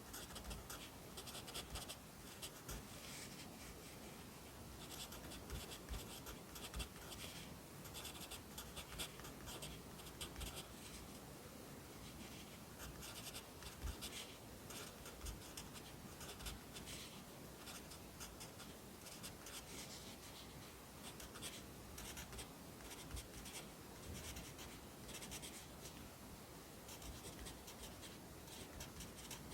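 Pencil writing Korean by hand on paper: faint, scratchy strokes coming in quick clusters, with short pauses between groups of strokes.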